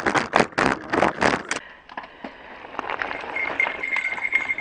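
A bicycle clattering and rattling in a rapid run of sharp knocks as the rider goes down in a wipeout, cutting off about a second and a half in. After that it is quieter, with a faint steady high tone from about three seconds on.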